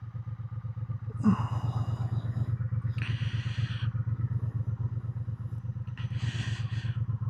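Triumph motorcycle engine running steadily at low revs while the bike is ridden slowly, heard from the rider's position, with short hissing noise three times over the top.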